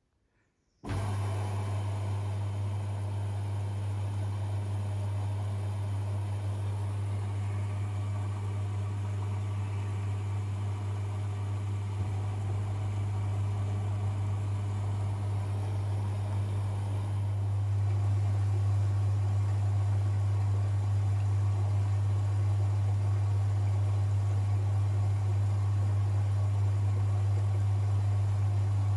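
Privileg 5020 washing machine starting up abruptly after a pause and running with a steady low hum, which gets a little louder about two-thirds of the way through.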